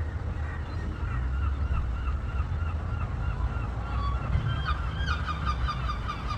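Gull calling in a run of short repeated calls, which come quicker and louder from about five seconds in, over a steady low rumble.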